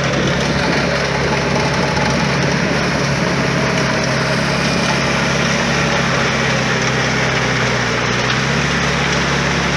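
Sonalika DI-30 Bagbaan 4WD tractor's diesel engine running at a steady speed while puddling.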